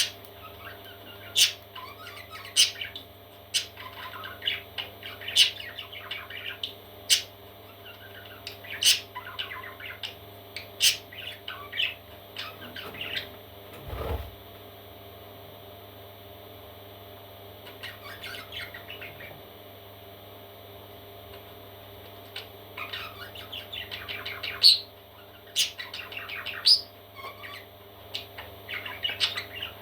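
Parrot chicks chirping and squawking in short, sharp calls and clusters, with a quiet spell past the middle. A single knock comes about halfway through, over a steady low hum.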